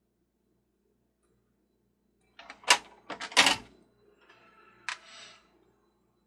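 Sharp plastic-and-metal clacks and knocks from handling a Mr. Christmas Ferris wheel: a quick cluster of clicks about two and a half seconds in, then a softer rattle and one more click. The heavy metal wheel arms are knocking in and out of their holes in the plastic base as they keep popping out.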